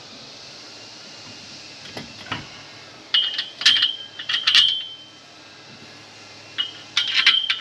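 Metal frame parts and hardware clinking and rattling against each other as the net frame is bolted together. There are two bursts of clinks with a brief ringing, one about three seconds in and one near the end, and a couple of light knocks before them.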